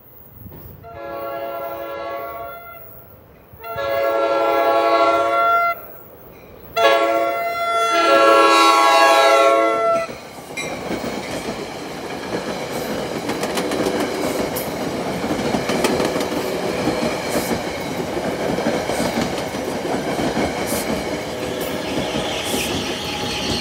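NJ Transit push-pull commuter train sounding its horn for a grade crossing in three long blasts, the last one dropping in pitch as the cab car reaches the crossing. The Comet V coaches then rush past with wheels clicking over the track, and the ALP-45A locomotive pushing at the rear goes by near the end.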